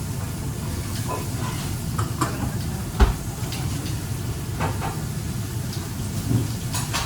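Meat sizzling and hissing in a pan over a steady low rumble, with scattered clicks and one sharp knock about three seconds in.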